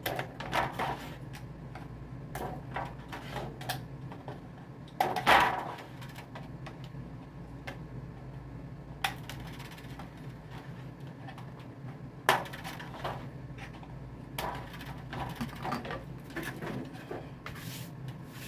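Scissors snipping the tails off plastic zip ties flush, a series of sharp clicks at irregular intervals, the loudest about five seconds in and again about twelve seconds in.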